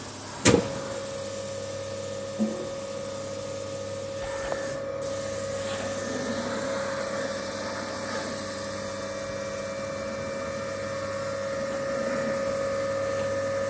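MTKN 111-6 crane electric motor (3.5 kW, 900 rpm) switched on with a click about half a second in, then running steadily with an even whine over a hum on a no-load test run.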